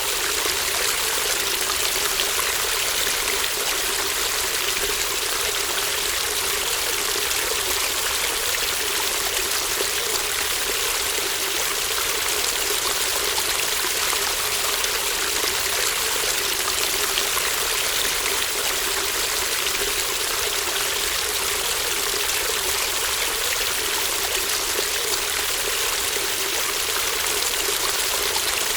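A shallow stream babbling and trickling, a steady even rush of running water.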